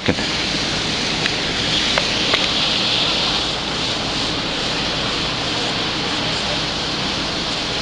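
Power washers spraying: a steady hiss of high-pressure water that holds even throughout.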